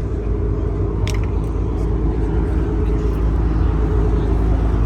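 Car engine running steadily with a low rumble, with a short click about a second in.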